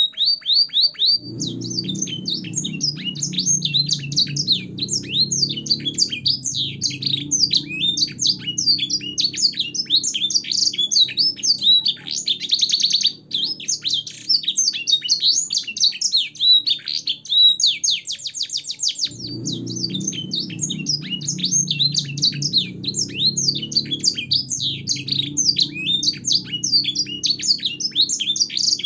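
Canary song for training young birds: continuous fast, high chirps, rattling trills and slurred notes, the canary's song filled with blackthroat and edel sanger phrases. A low hum runs underneath for most of it, dropping out for a few seconds in the middle.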